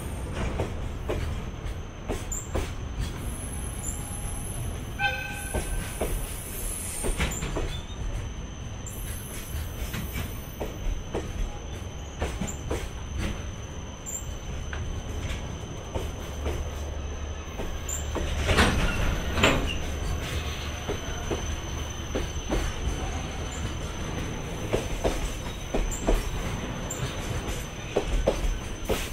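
JR Freight container train's loaded flat wagons rolling past: a steady low rumble with repeated clicking of wheels over rail joints. There is a brief wheel squeal about five seconds in, and a louder run of clatter a little past the middle.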